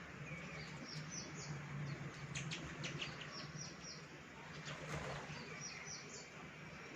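Baya weavers chirping: short, high, falling chirps in quick runs of three or four, repeating about every second, with a brief burst of clicky chatter about two and a half seconds in, over a low steady hum.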